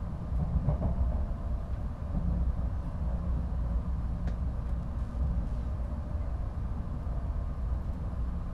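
Shinkansen train running at speed, heard inside the car's vestibule: a steady low rumble of the car and its wheels on the track.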